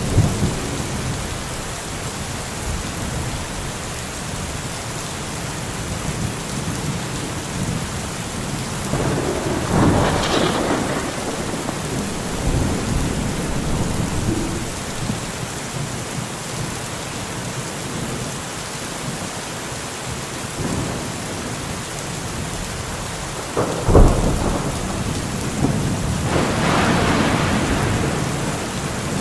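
Steady rain falling, with thunder: a rumble about a third of the way in, then a sudden sharp crack followed by a longer rumble near the end.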